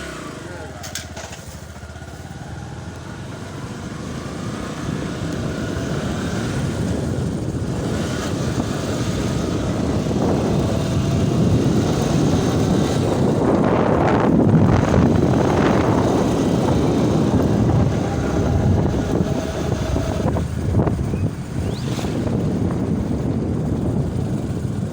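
Motorcycle riding along a road: engine running under a rush of road and wind noise that grows steadily louder as it gathers speed, is loudest about halfway through, then eases a little.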